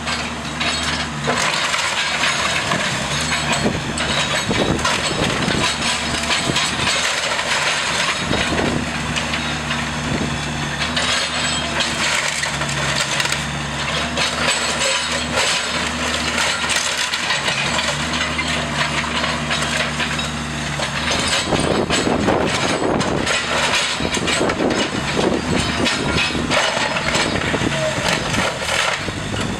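Wooden house structure being crushed and torn apart, with continuous cracking and splintering of timber over the steady running of a heavy machine's engine. About two-thirds of the way through, the engine note drops back and the crunching and splintering wood takes over as the loudest sound.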